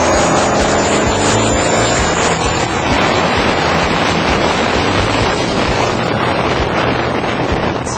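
Loud vehicle noise under hard acceleration, heavily buffeted by wind on the microphone.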